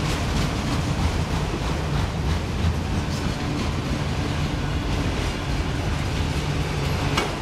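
Freight train of autorack cars rolling past: a steady rumble with wheel clicks, and one sharper clack near the end.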